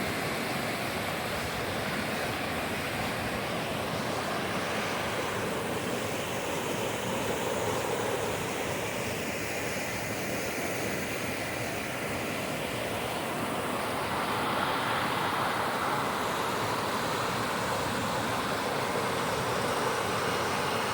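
Steady rushing of water cascading down a mountain creek, an even noise with no breaks.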